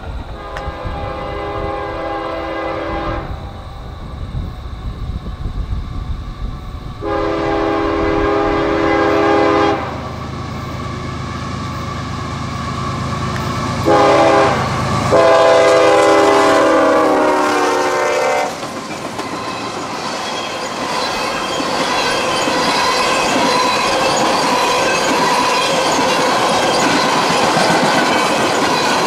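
A CSX diesel freight locomotive sounds its horn in four blasts, long, long, short, long: the grade-crossing signal. Under the horn is the low rumble of its engine as it approaches. Then comes the steady rumble and clatter of a long string of tank cars rolling past.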